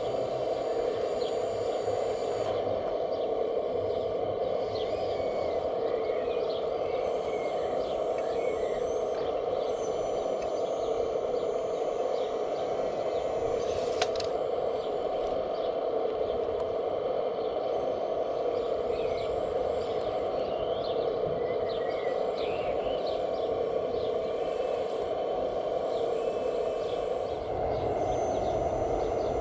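A steady, even mechanical hum, with faint bird chirps over it and a single sharp click about halfway through.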